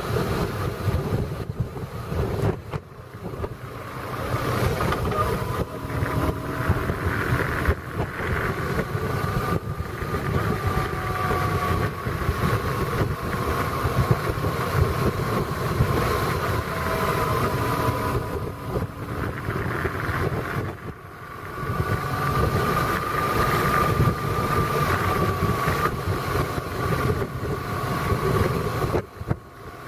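A vehicle's engine running on the move, its note wavering up and down with speed, over rumbling road and wind noise on the microphone. The sound dips briefly a few times.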